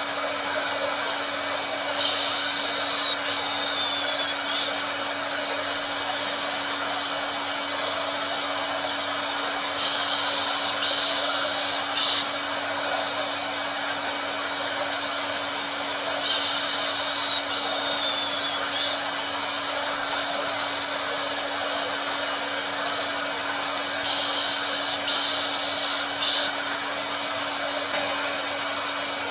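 Hair dryer running steadily, an even rushing hiss over a constant low hum. A brighter, higher hiss rises for a second or two and drops back about every six to eight seconds, in a repeating cycle.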